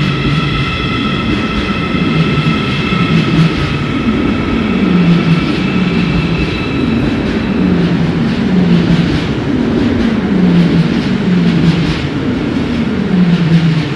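ÖBB Railjet passenger train pulling out and rolling slowly past, its coaches giving a low rumble that swells and fades about every one and a half seconds. A high steady whine fades out about halfway through.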